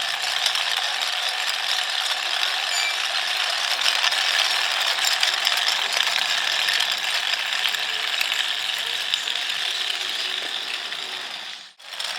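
Small DC motor running steadily, driving the gears of a homemade model locomotive with a dense mechanical gear noise; it drops out for a moment near the end.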